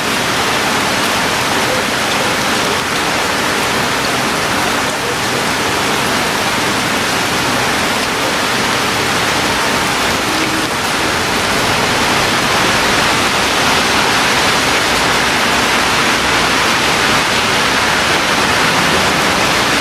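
Rain falling steadily, a continuous even hiss that gets a little louder in the second half.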